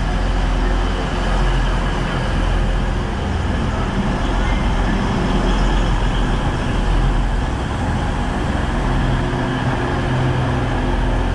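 Class 185 diesel multiple unit moving alongside the platform, its underfloor diesel engines and wheels on the rails making a loud, steady rumble with a low engine drone.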